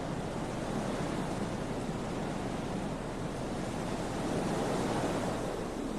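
Strong wind blowing across the microphone as a steady rushing noise, swelling into a gust about four seconds in.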